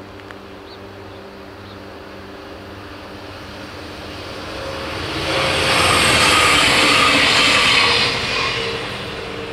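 Alstom LINT 41 diesel railcar passing: its noise builds from about four seconds in, is loudest for a couple of seconds, then falls away near the end. A steady low hum runs underneath.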